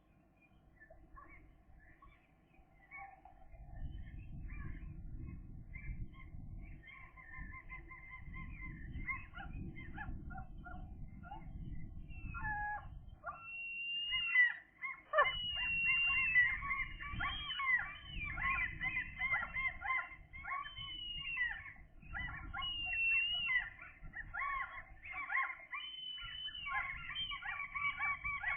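Gull chicks calling: many short, rapid calls that grow denser and louder about halfway through, over a low rumble that comes and goes.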